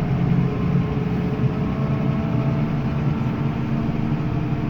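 Heavy vehicle's diesel engine running at a steady speed while driving along.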